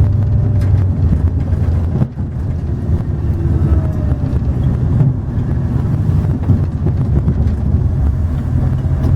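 A vehicle engine running steadily with a low hum, dipping briefly about two seconds in.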